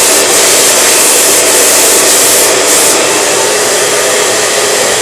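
Handheld hair dryer running steadily at full blow.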